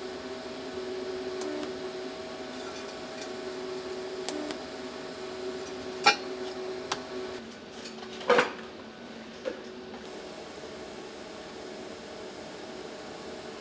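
Several sharp metallic clinks, the loudest a double knock about eight seconds in, over a steady machine hum that stops about halfway through.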